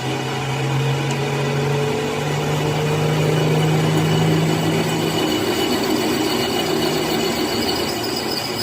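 A machine's motor running with a steady hum, joined by a faint high whine near the end.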